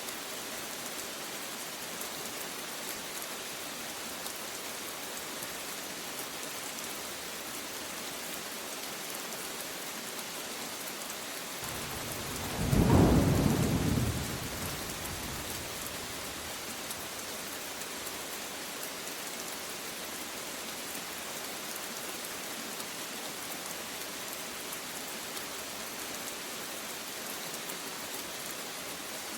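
Steady rain falling, with a single clap of thunder about twelve seconds in that rumbles for two to three seconds and fades, the loudest sound here.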